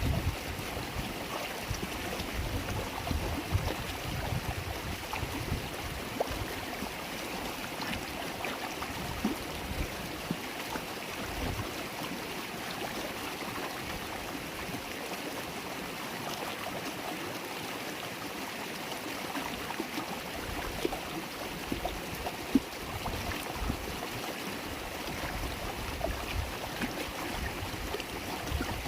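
River water babbling steadily, full of small splashes, with low rumbles coming and going underneath and one brief sharp click about two-thirds of the way through.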